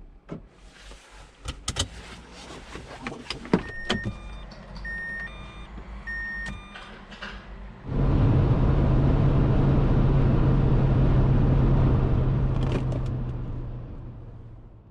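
Clicks and knocks from inside a car, with three short electronic beeps. About eight seconds in, the Dacia Duster's 1.6 SCe four-cylinder petrol engine starts abruptly and runs steadily with a low hum, then fades away.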